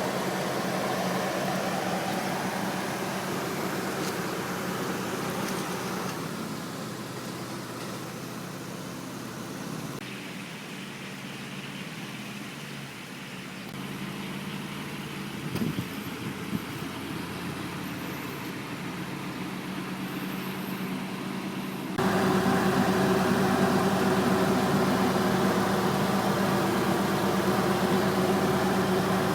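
1999 Mitsubishi Lancer GLXi's 1.6-litre single-overhead-cam 16-valve four-cylinder engine idling steadily, with a low even hum. It gets suddenly louder about three-quarters of the way through.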